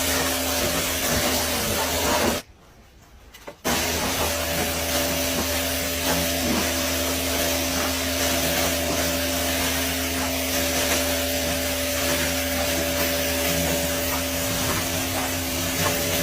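Automatic car wash running: a steady motor hum under continuous rubbing and spraying noise, which cuts out to near silence for about a second, about two seconds in.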